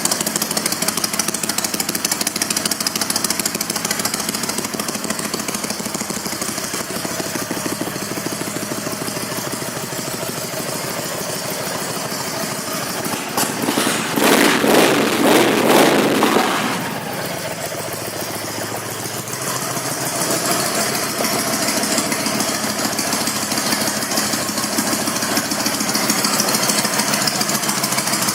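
2006 Honda VTX1300R's V-twin engine idling through exhaust pipes that sound aftermarket. About halfway through it is revved up for a few seconds, then settles back to idle.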